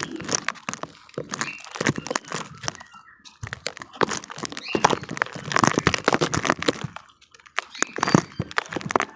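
Damp cement crumbling apart in a dense run of crackles and crunches, busiest in the middle, with a short lull before a last flurry near the end.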